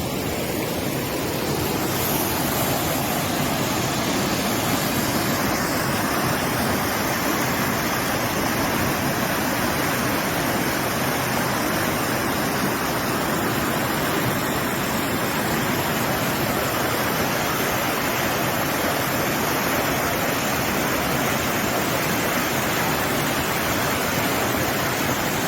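Floodwater from an overflowing river gushing in a steady, loud rush like a waterfall.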